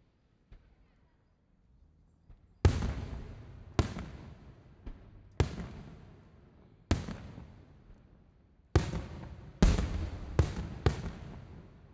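Aerial fireworks shells bursting, about nine booms in uneven succession, each followed by a long echoing rumble. The last few come quickly one after another near the end.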